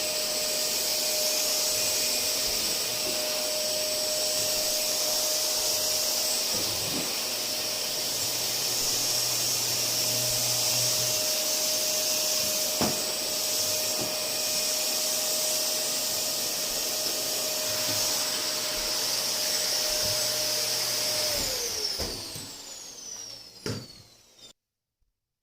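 Canister vacuum cleaner running steadily with a high whine and a few light knocks, then switched off about 22 seconds in, its motor winding down with falling pitch until it stops.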